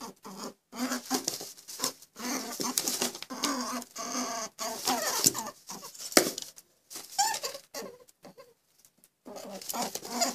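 A run of short pitched animal calls in quick, irregular succession, some sliding up and down in pitch, with scattered clicks among them and a brief lull near the end.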